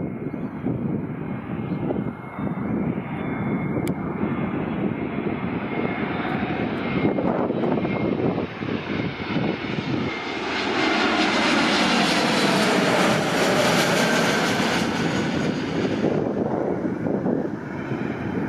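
A jet airliner passing close, its engine noise swelling to its loudest about ten seconds in and fading near the end. Wind buffets the microphone throughout.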